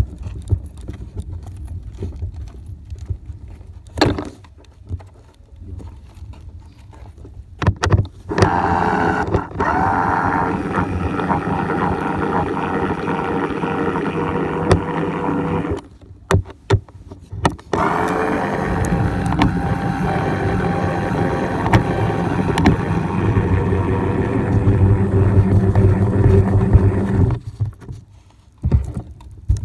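Radio-controlled model Cessna Caravan's motor and propeller running at a steady pitch in two long stretches, with a short break of clicks between them, heard from a phone riding inside the model. Low wind rumble and knocks fill the first few seconds before the motor comes up.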